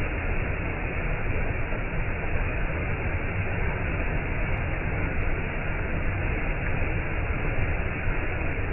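Waterfall: a steady rush of falling water, even and unbroken, with most of its weight in the low end.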